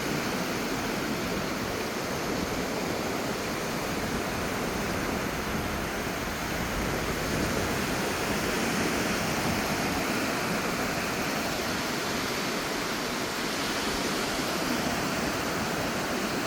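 Ocean surf washing steadily onto a beach, a continuous rush of breaking waves.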